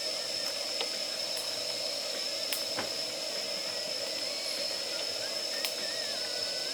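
Campfire of damp firewood, a few sharp crackling pops scattered over a steady hiss.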